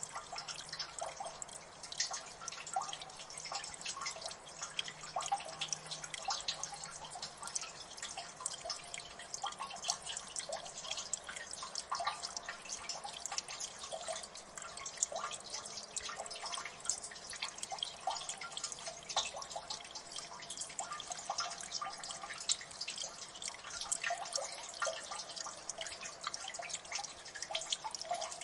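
Water dripping in a gully: many small drips falling at an irregular, rapid pace over a faint steady trickle.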